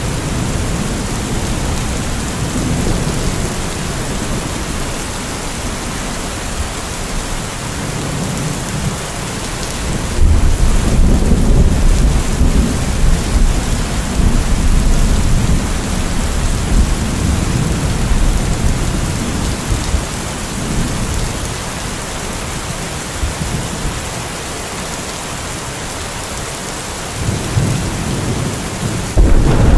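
Steady heavy rain with rolling thunder. A deep rumble swells about ten seconds in, fades over the next several seconds, and a second loud rumble starts near the end.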